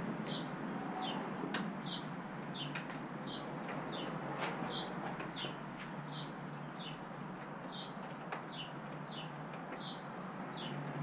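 Short high chirps repeating steadily about twice a second, like a small bird calling, over a steady low hum, with a few faint clicks from hand work on a bolt.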